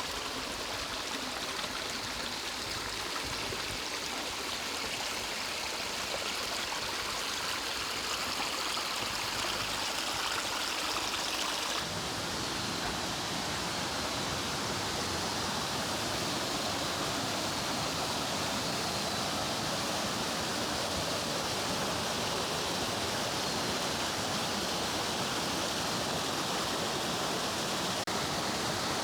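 Mountain stream water running steadily over rocks. About twelve seconds in it changes abruptly to a fuller, deeper rush of water.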